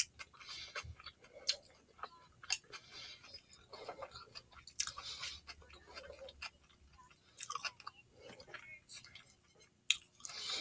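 A person chewing a mouthful of Philly cheesesteak sub at close range, with frequent short, sharp wet mouth clicks.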